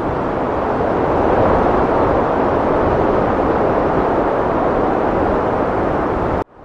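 Heavy wind blowing in a steady loud rush that swells a little about a second in. Near the end it cuts out suddenly for an instant and fades back in, like a join in the loop.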